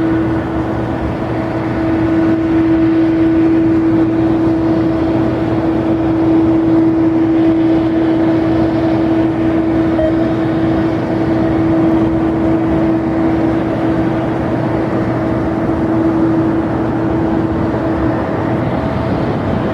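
Jet airliner's engines running steadily, a constant whine over a broad rumble, with the whine dropping away about 18 seconds in.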